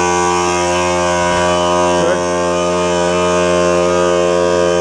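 Small portable air compressor running steadily with a constant pitched hum. Its faulty switch is bypassed, so the motor is wired straight to the power; with no hose fitted, the pump blows air out freely instead of building pressure.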